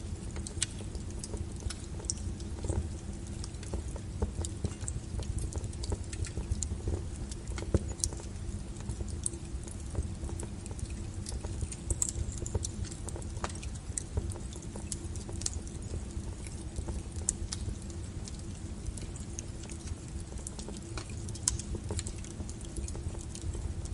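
Wood fire burning: a steady low rumble under frequent irregular crackles and sharp pops of burning firewood.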